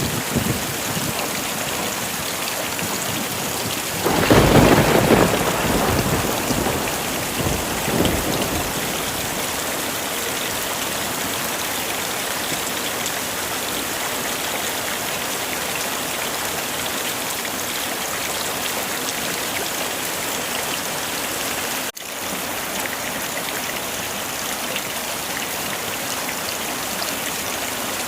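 Heavy rain falling steadily, with a roll of thunder about four seconds in that rumbles for four or five seconds before fading back into the rain. The rain cuts out for an instant about three-quarters of the way through.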